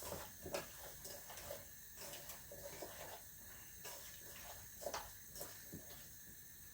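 Cookware being handled on the stove: scattered light clicks and knocks over a faint steady hiss.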